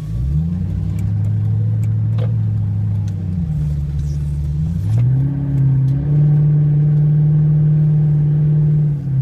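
Car engine heard from inside the cabin, revving up hard and held at high revs, easing off about three seconds in, then revving up again and held until it drops off near the end.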